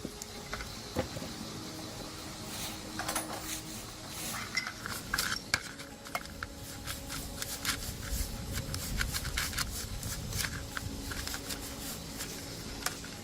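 Small metal parts and hand tools clinking and clattering in an irregular series of light taps and knocks, busier after the first couple of seconds.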